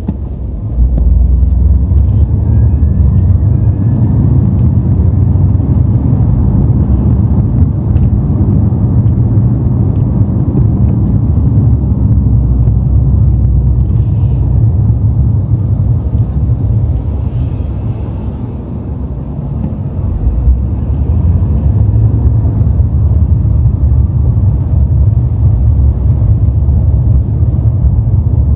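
BMW M5 being driven, a steady deep rumble of engine and road noise. It eases off briefly about two-thirds of the way through, then picks up again.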